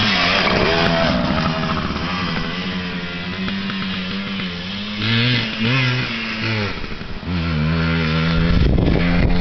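Dirt bike engine running and revving, its pitch rising and falling, with three quick throttle blips about five to six and a half seconds in.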